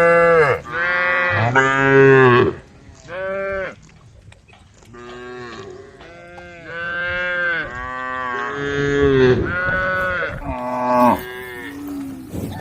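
Cows mooing, call after call: several short moos in the first few seconds, then a longer run of overlapping moos from more than one cow, and a few short calls near the end.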